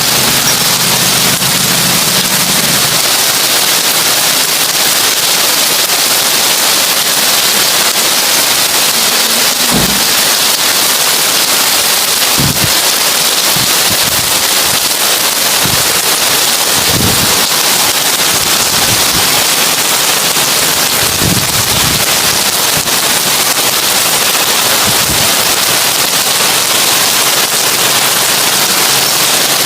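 Heavy rain falling on a tin roof: a loud, steady, dense hiss, with a few short low thuds every few seconds.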